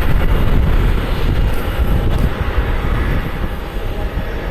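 Boeing 767-200 jet engines running as the airliner taxis past close by, a loud steady rumble that eases off slightly after about a second.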